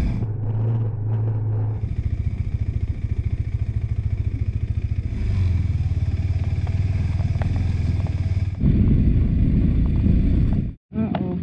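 KTM 390 Adventure's single-cylinder engine running at low revs, its firing pulses plainly audible and the throttle easing and opening. It gets louder about nine seconds in, and the sound drops out for a moment near the end.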